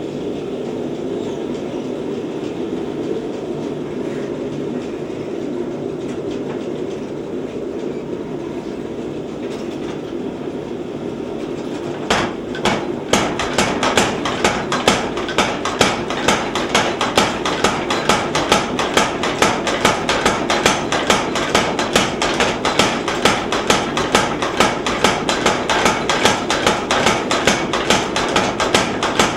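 Little Giant 50-pound mechanical trip hammer, running steadily at first, then, after about 12 seconds, a couple of single blows and then a fast, even run of hammer strikes, several a second, on hot steel bar stock being drawn out.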